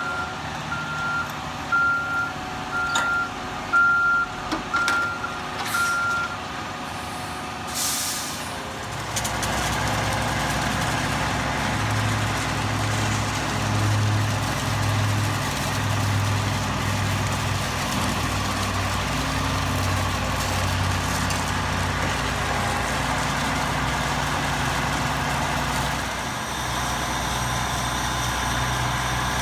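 Heavy diesel truck's backup alarm beeping steadily for about six seconds, then a short air-brake hiss, then the engine running loud and steady with a slow, regular throb in its note.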